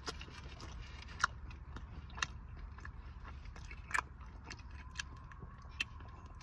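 A person chewing a mouthful of pizza close to the microphone, with about five sharp, short clicks at irregular intervals over a low steady background.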